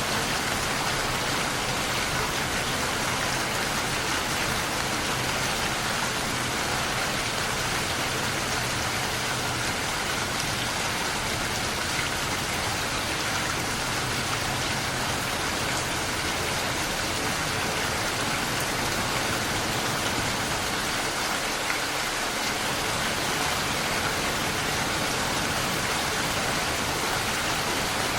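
Steady rain falling on surfaces, an even, unbroken hiss of many drops.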